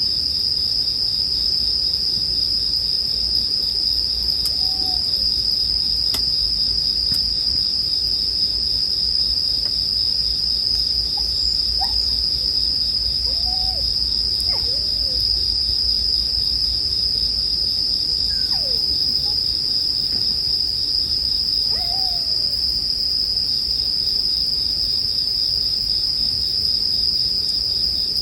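Bell crickets (suzumushi) chirping in a dense, unbroken high-pitched chorus. A few faint, short, arching calls from some other animal come and go underneath it.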